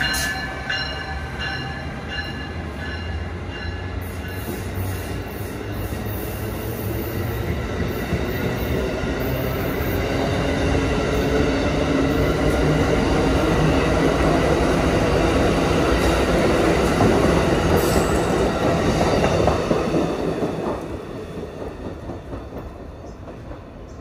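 Amtrak passenger train, led by a Siemens ACS-64 electric locomotive, pulling away and picking up speed. Its wheels rumble and clatter over the rails with a faint rising whine, growing louder as the cars go by. The sound drops off about 20 seconds in as the last car passes and draws away.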